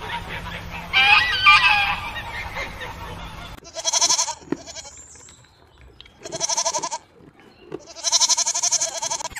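Mallard ducks calling, then sheep bleating three times, each bleat quavering and lasting about a second, the last one the longest.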